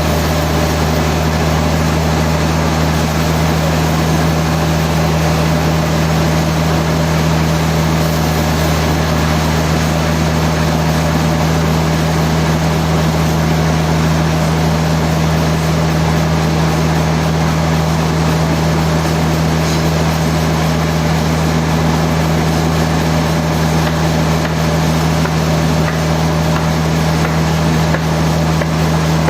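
Machinery running steadily: a constant low drone with a noisy hiss over it, unchanging throughout.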